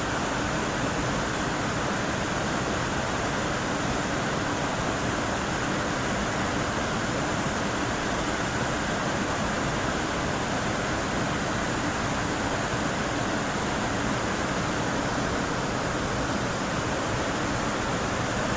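Waterfall and whitewater rapids rushing: a steady, even noise that does not change.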